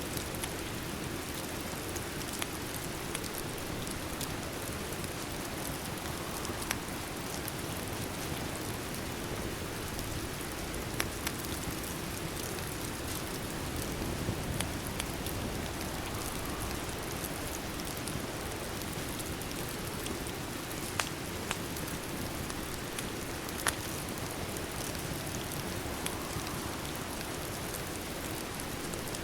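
Steady rain hissing evenly, with about a dozen sharp crackles and pops scattered through it from a wood fire in a fireplace.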